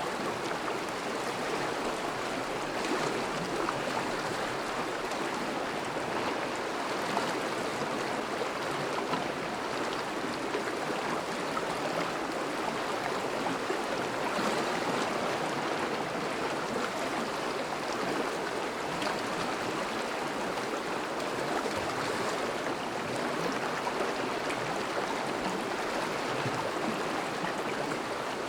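Thawing river flowing steadily over a shallow bed, a continuous rush and babble of moving water with small splashes.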